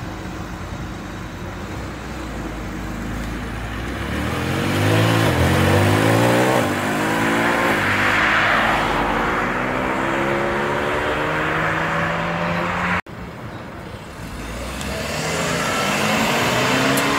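Car engines revving and accelerating away, their pitch rising and falling several times, loudest about eight seconds in. The sound breaks off suddenly near thirteen seconds, then another engine revs up.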